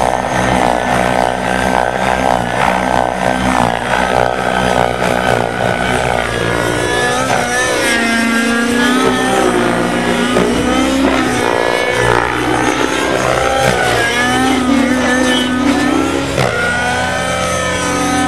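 Engine of a large radio-controlled model helicopter running, steady at first and then rising and falling in pitch over and over as it is throttled.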